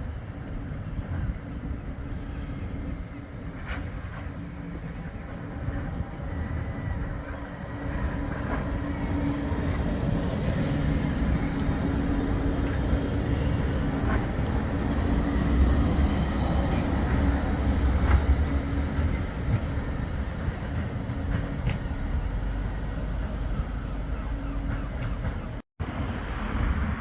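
Flexity 2 tram running past on street track: a steady low rumble with a humming tone that builds to its loudest a little past halfway, then eases off. The sound cuts out briefly near the end.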